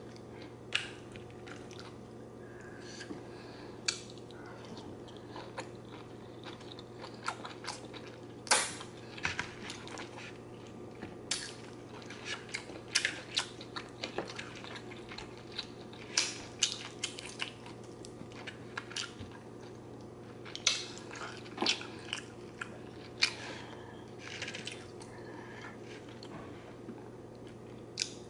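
Close-miked chewing of shrimp Alfredo with zucchini noodles: irregular wet mouth smacks and clicks, with occasional clinks of a fork in a plastic bowl, over a faint steady hum.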